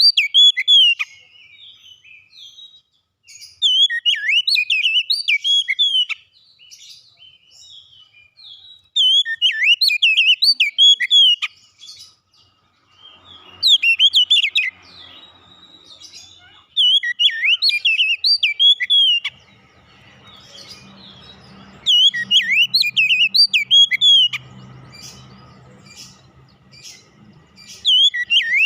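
Oriental magpie-robin (kacer) singing: bursts of quick, varied whistled notes, each phrase about two seconds long, repeated every four to five seconds.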